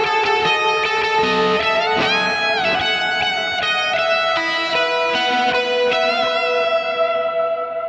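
J-Craft T-3VM electric guitar with Tonerider Hot Classics pickups, played through an amp as a single-note lead line. There are string bends about two seconds in and again near five seconds, and the line ends on a held note that rings on.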